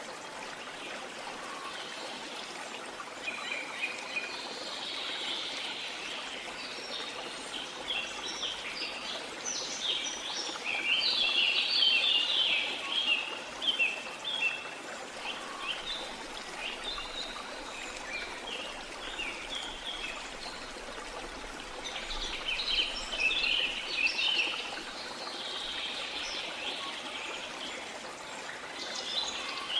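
Birds chirping and singing in scattered bursts over the steady rush of running water, with the busiest, loudest chirping about a third of the way in.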